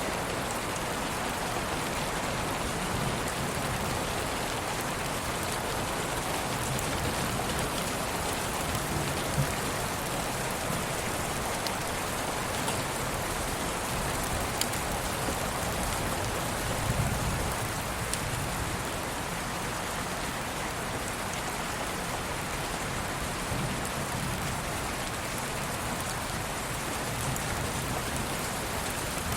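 Steady rain ambience, an even wash with scattered sharper drop sounds and a brief low rumble about halfway through.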